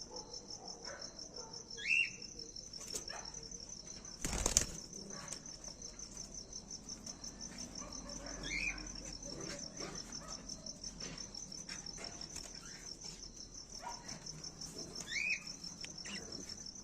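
Insects trilling steadily in a fast, even pulse, with a bird giving a short call three times, about six seconds apart. A brief loud rustling burst comes about four and a half seconds in.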